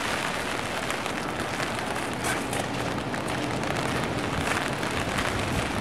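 Steady rain falling and pattering on a rooftop.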